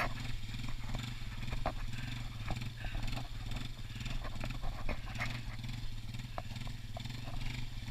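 An off-road vehicle's engine running steadily with a low hum, with scattered light clicks and knocks over it.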